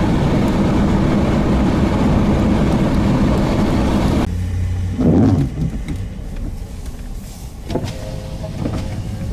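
A motor vehicle's engine running loudly with a steady low hum. It cuts off abruptly about four seconds in, then quieter vehicle noise follows, with a short louder burst about a second later.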